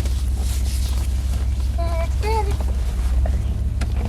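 Steady low rumble of an idling car heard inside the cabin. About two seconds in there are two short vocal sounds, and there are a couple of faint clicks near the end.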